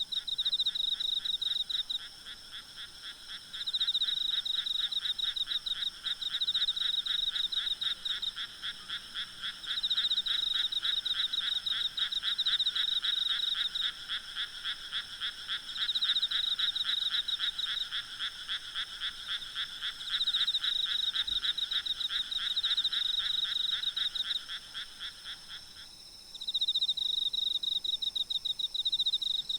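Frogs chorusing at night in fast pulsed calls, in bouts of a few seconds with short pauses between them; one lower-pitched part of the chorus drops out near the end. Insects trill steadily and high-pitched underneath.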